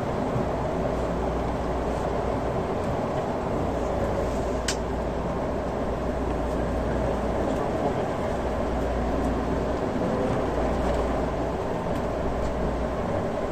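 Steady running noise inside a Limited Express Shinano electric train: a low rumble of wheels on rail under an even hiss. A brief high-pitched squeak comes about five seconds in.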